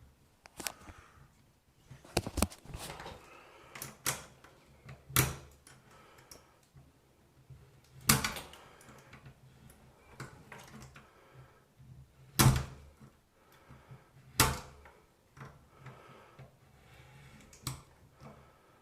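Irregular knocks and clicks of a single-handle faucet's parts and tools being handled and fitted together, with about five louder knocks among lighter taps.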